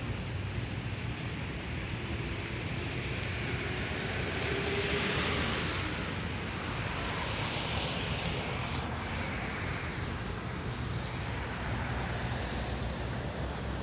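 Steady hiss of rain and wind, with a low rumble of wind on the microphone. The noise swells for a couple of seconds near the middle.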